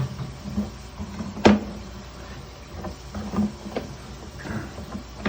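Irregular knocks and clunks from a sewer inspection camera's push cable being fed down a drain line. The loudest is a sharp knock about a second and a half in, with a few smaller knocks later.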